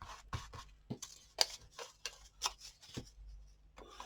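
Paper scraps being handled at a table: a string of short rustles and scrapes, about two to three a second, with a few soft taps.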